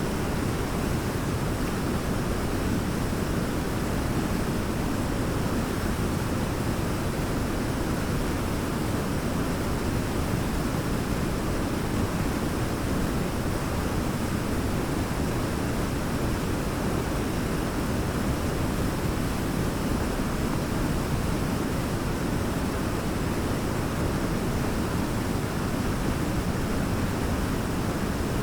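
Large waterfall: a steady, unbroken roar of falling water, heaviest in the low range.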